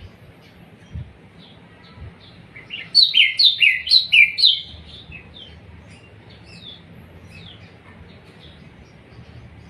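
Songbird calling: sparse, faint chirps, broken about three seconds in by a loud, rapid burst of song of around a dozen quick, falling notes lasting under two seconds, then scattered chirps again.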